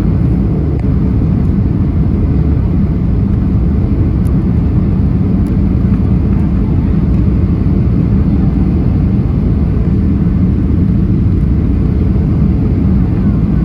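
Cabin noise inside a Boeing 737NG airliner: a steady, loud low rumble of the engines and rushing air, unchanging throughout.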